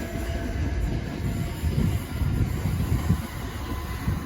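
Southeastern Class 465 Networker electric multiple unit departing past the platform: a steady low rumble of wheels running over the rails, with faint higher tones from its motors.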